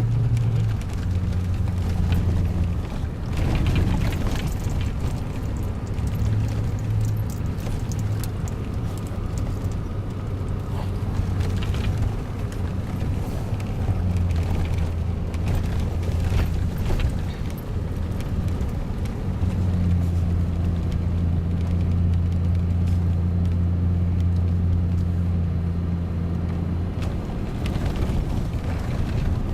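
A vehicle engine running, a steady low drone with rumbling noise, which eases for a moment a few times and comes back.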